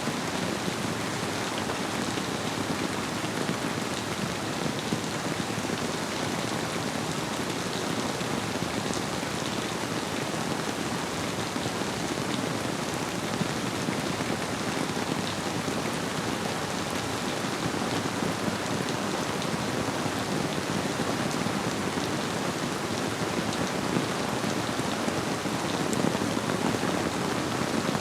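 Steady rainfall, an even continuous hiss with occasional single drops ticking, blended with the flow of a river.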